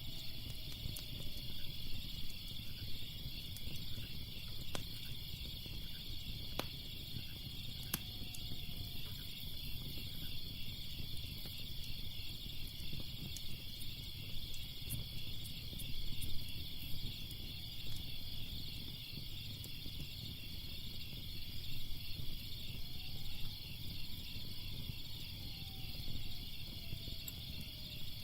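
Crickets chirping in a steady, fast-pulsing chorus over a low rumble, with scattered sharp pops of a crackling fire.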